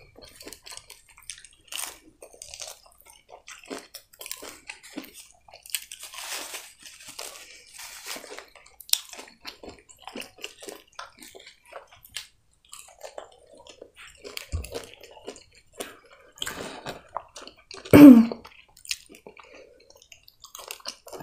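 Close-up chewing and crunching of breaded fried food and French fries, with wet mouth sounds and many small irregular crackles. A short, loud mouth or throat sound comes near the end.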